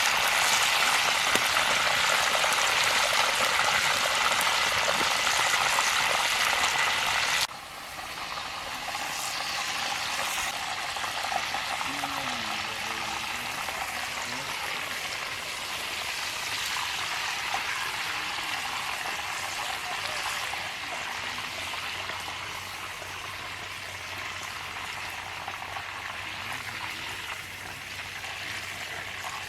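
Steady sizzling hiss of food cooking in a pot, which cuts off suddenly about seven seconds in to a quieter, similar sizzle.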